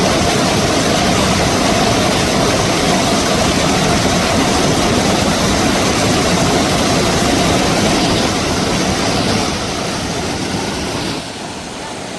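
Cascading mountain waterfall, water rushing over rocks as a loud, steady noise with no tone in it. It gets quieter about eight seconds in and drops abruptly about a second before the end.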